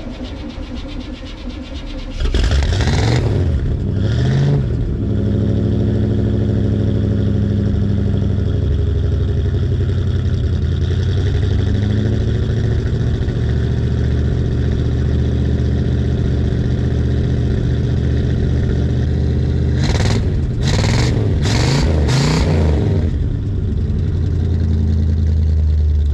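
A 1984 truck's engine starting: it catches about two seconds in and is revved twice, then settles into a steady idle. It is blipped three times in quick succession near the end. It runs well, but its choke needs adjusting.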